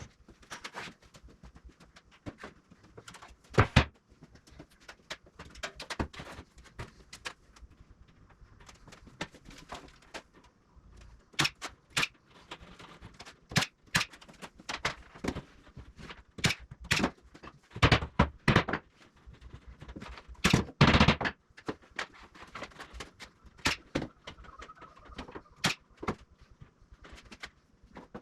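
Irregular knocks and taps with a few heavier thuds from hands-on work with 2x4 lumber and tools on a wooden frame.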